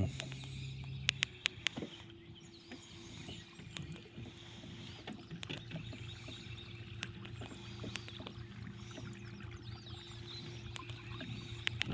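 Ambience from a fishing kayak on the water: a steady low hum runs throughout, with a few sharp clicks and knocks in the first couple of seconds and faint bird chirps.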